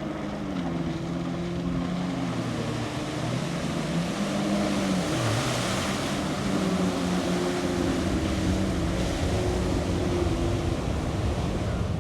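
The four turbofan engines of Air Force One, a Boeing 747 (VC-25A), running at full takeoff thrust: a steady jet rush with low humming tones. The rush grows a little louder, and the tones dip in pitch about five seconds in as the jet passes.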